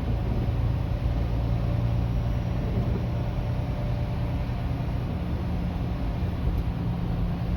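Steady low rumble of a running engine, an even hum that does not change.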